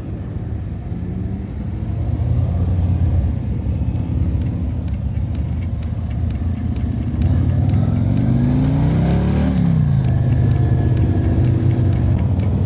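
Motorcycle V-twin engine pulling away at low speed in a large pack of bikes. About eight seconds in it revs up through a gear and drops in pitch as it shifts, then runs on steadily louder.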